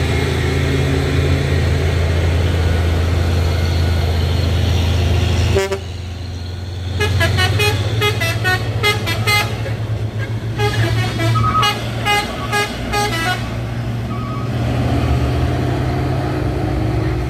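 A heavy truck's diesel engine runs with a low, steady drone, then a vehicle horn sounds a quick run of short notes at changing pitches for several seconds, and the engine drone comes back near the end.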